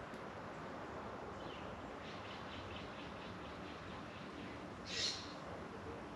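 Birds calling outdoors: a faint quick series of high chirps, then a single louder, harsh high call about five seconds in, over a steady background hiss.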